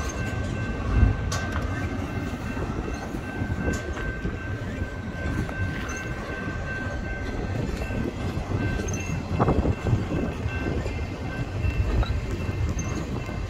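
Double-stack intermodal freight cars rolling slowly past as the train brakes toward a stop: a low steady rumble of wheels on rail with a thin, steady high squeal from the braking wheels and occasional knocks and clanks.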